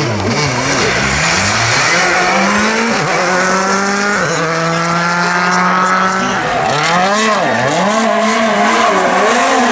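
Rally car engine revving hard on a stage, its pitch climbing and dropping sharply again and again through gear changes and lifts. About halfway through it holds one steady high note for about two seconds before falling away.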